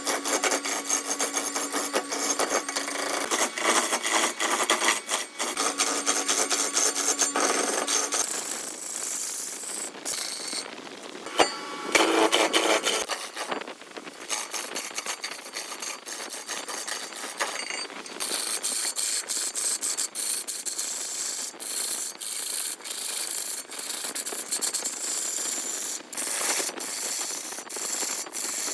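Wood being worked with tools: repeated rasping and scraping strokes on hardwood. At times a steady pitched hum runs under the strokes.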